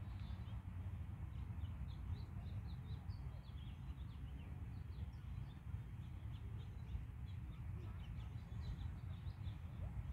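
Small birds chirping in many short, high notes, several a second, over a steady low rumble.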